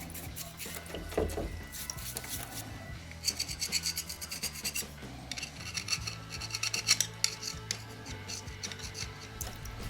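A hand tool scraping and rasping on metal in quick strokes, working at a motorcycle swingarm's bushings. The strokes come in two busy runs around the middle, over a faint steady low hum.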